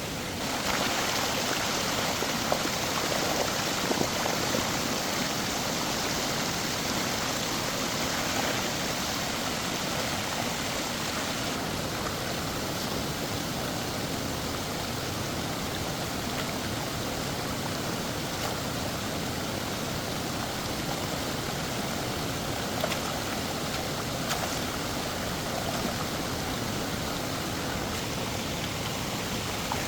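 Steady rushing of running water, a little louder and brighter for the first ten seconds or so.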